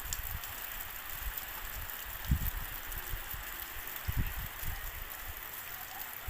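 Steady rain falling, an even hiss, with two brief low thuds about two and four seconds in.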